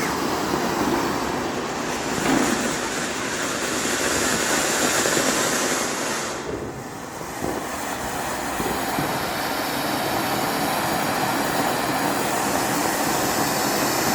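Firecracker burning with a steady rushing hiss, easing briefly about six and a half seconds in before picking up again.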